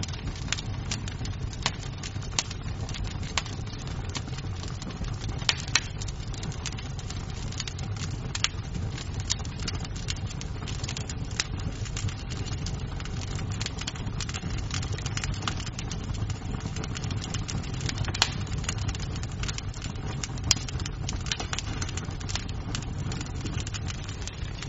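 Wood fire crackling in a fireplace: irregular sharp pops and snaps of burning wood over a steady low rumble.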